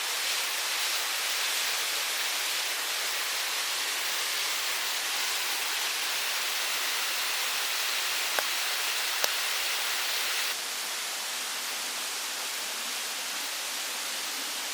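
Mountain stream rushing steadily, with two small clicks a little after the middle. The rushing drops slightly in level all at once after about ten seconds.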